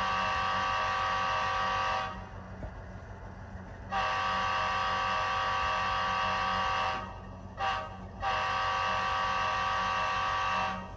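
Tsunami 2 sound decoder in an HO-scale GE CW44AH model locomotive playing the grade-crossing horn sequence through its small speaker: two long blasts, a short one, then a final long blast. A steady low idle of its simulated GE 7FDL-16 diesel engine runs underneath.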